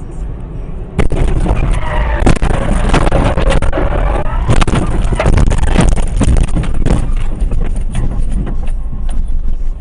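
Car noise through a dash cam's microphone: about a second in it turns suddenly loud, with rumbling, clattering and a wavering squeal, and cuts off abruptly at the end.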